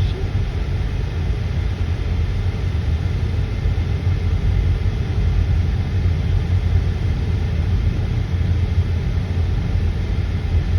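Steady low rumble of a car, heard from inside the cabin, with no birdsong standing out.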